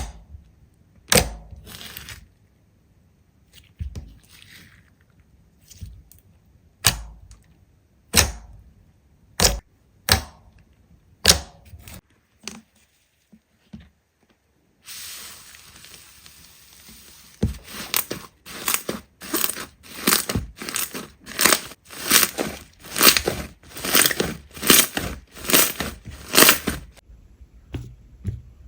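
Slime being pressed and poked, giving sharp crackling pops about every second and a half. About halfway through a faint hiss comes in, and the pops come quicker, about two a second.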